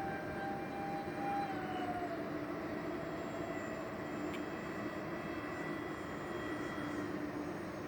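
Electric ducted fans of a radio-controlled Airbus A330 model airliner whining in flight, a steady whine with a dip in pitch about two seconds in as the throttle changes.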